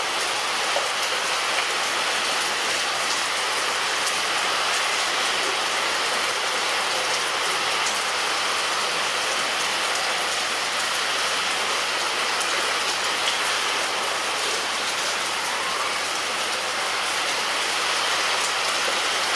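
Rain falling steadily on a roof: a dense, even hiss with scattered drop taps.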